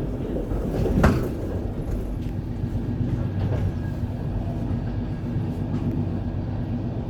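Passenger train noise: a steady low rumble with a faint hum, and a single loud clunk about a second in.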